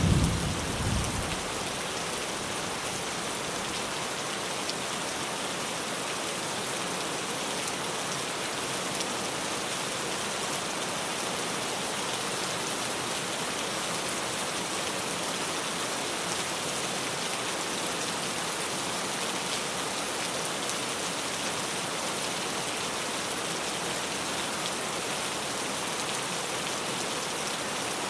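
Rain drumming steadily on a tin roof. The low rumble of a thunderclap dies away in the first second or two.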